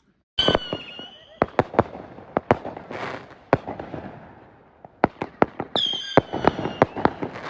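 Consumer fireworks going off: a shrill, slightly falling whistle about half a second in, followed by a run of sharp bangs and crackling. A second whistle comes near the end, again followed by rapid bangs.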